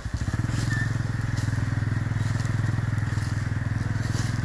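ATV (four-wheeler) engine running as it rides along a dirt trail, a steady low throbbing engine note.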